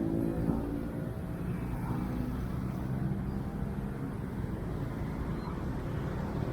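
Street traffic: a passing vehicle's engine fades away in the first half-second, leaving a steady low rumble of traffic.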